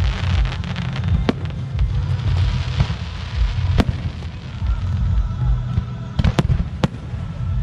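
Fireworks display: aerial shells bursting with sharp bangs, a quick cluster of them late on, between patches of crackling, over a steady low rumble.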